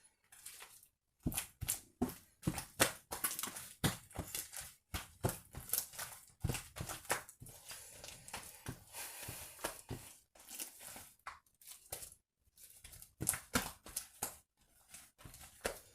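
Slime mixed with angel clay being kneaded and squeezed by hand, giving irregular crackles and sticky pops in quick clusters with short pauses between them.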